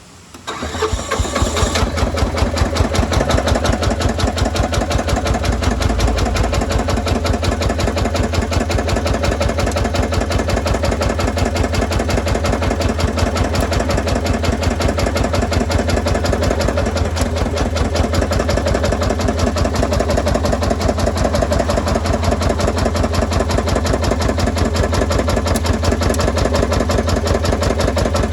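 Yanmar C10R-1 crawler carrier's diesel engine starting under a second in, catching after a brief cranking noise, then running steadily at idle with an even, rapid pulse.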